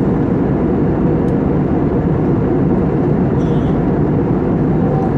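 Steady, loud cabin noise inside a jet airliner in flight: a deep, even rush of engines and airflow, with no rises or breaks.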